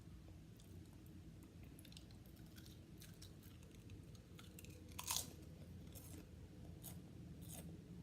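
Potato chips being chewed close to the microphone: crisp, irregular crunches, the loudest about five seconds in, over a low steady background hum.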